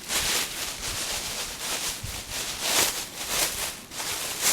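Rustling and crinkling of a bag and packaging being handled, in short irregular bursts.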